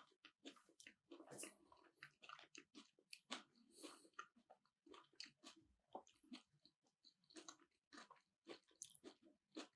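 Faint close-miked chewing of keto sushi made with cauliflower and cheese: soft, wet mouth clicks and smacks coming irregularly several times a second.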